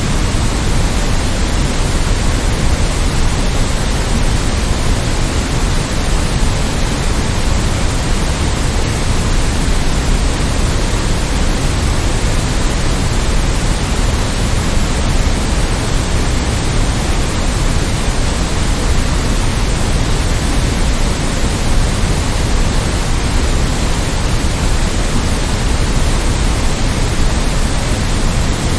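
Steady white noise: an even, unchanging hiss across the whole range, a little heavier in the low end.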